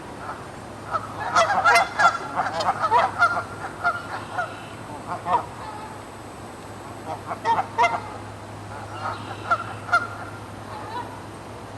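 A flock of geese honking, several birds calling over one another in bouts, busiest in the first few seconds and again later on, over a steady low hum.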